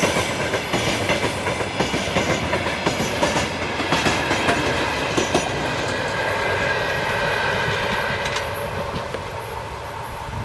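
Freight train wagons rolling past, the wheels clicking rapidly over the rail joints. From about the middle the rolling turns smoother, with a thin high whine, and the sound fades near the end.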